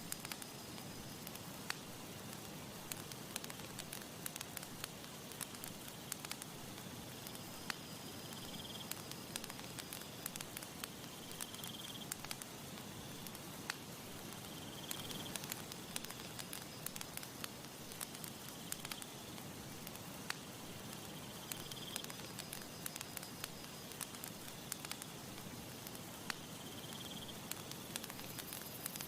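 Campfire burning with a steady hiss and frequent sharp crackles and pops. A short high chirp recurs every few seconds behind it.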